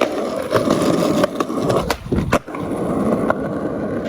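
Skateboard wheels rolling on pavement, with the sharp crack of an ollie pop about two seconds in and the board landing a moment later, after which the rolling resumes.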